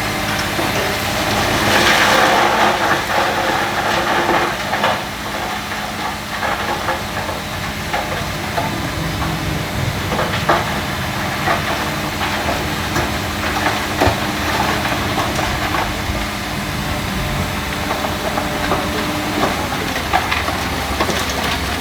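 Heavy earth-moving machinery's diesel engine running steadily, with scattered knocks and clatter of stones. A louder rushing noise swells about two seconds in and fades over the next few seconds.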